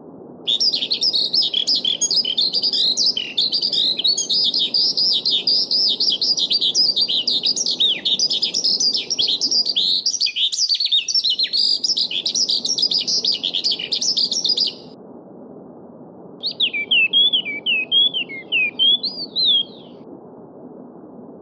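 A songbird singing a long, rapid run of chirps and trills that stops abruptly at about fifteen seconds, then a shorter phrase near the end, over the steady rush of a babbling stream.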